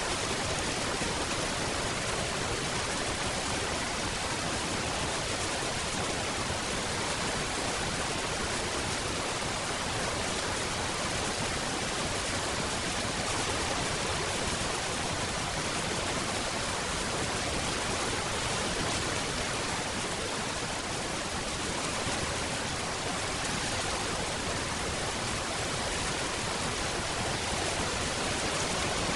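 Steady rain falling, an even hiss of many drops with no distinct drips or thunder.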